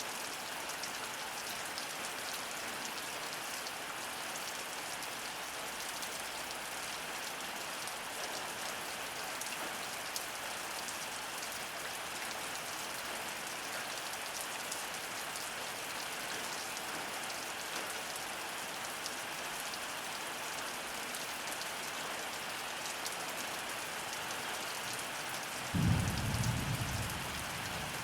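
Heavy rain falling steadily in a thunderstorm, an even dense hiss of drops on surfaces. Near the end a sudden short low rumble stands out above the rain.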